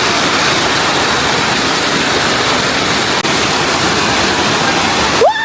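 Waterfall water rushing steadily. Near the end it drops out briefly under a single held call that rises, holds and falls, like a person calling out.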